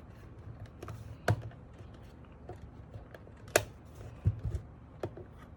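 A handful of sharp clicks and taps as the MK870 keyboard's case clips are pried apart with a pry tool, the loudest snap about three and a half seconds in.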